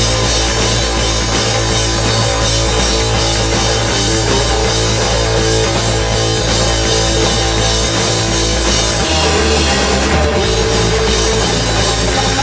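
Rock band playing live, with a drum kit driving the beat and sustained low bass notes that shift about nine seconds in.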